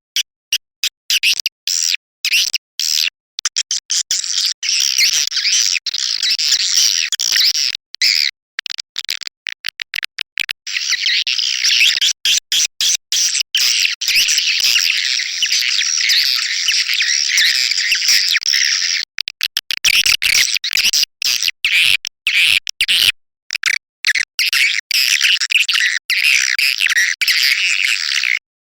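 Swiftlet lure call: a dense, high-pitched chattering of many swiftlet chirps, chopped by frequent abrupt short silences. It is the call played from a swiftlet house to draw swiftlets in to roost and nest.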